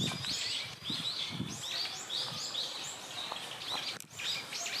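Several small birds chirping, with many short arched notes overlapping in quick succession throughout.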